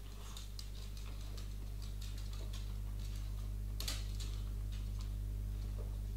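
A person chewing a mouthful of food, with scattered small wet clicks and smacks, the sharpest just before the midpoint, over a steady low electrical hum.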